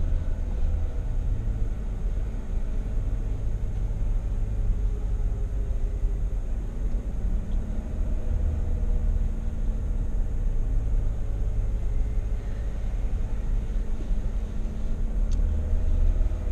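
Steady low rumble of a vehicle driving slowly on a dry dirt road, heard from inside the cabin: engine and tyre noise.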